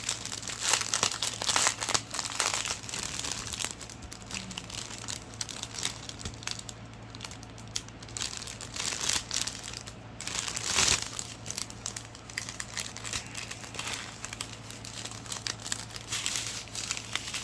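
Thin plastic packaging crinkling on and off as it is handled: the small plastic bags of diamond-painting drills and the kit's wrapping.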